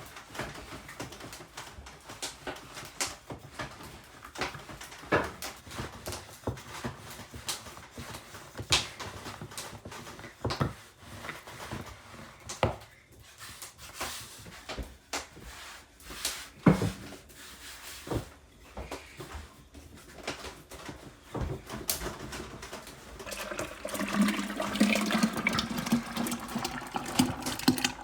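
Kitchen work sounds: scattered knocks and clatters of utensils and containers being handled, then water running steadily from about twenty-four seconds in.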